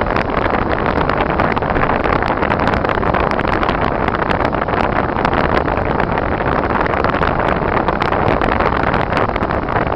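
Car driving on snowy, icy roads: a steady rush of road and engine noise, sprinkled with many small sharp ticks.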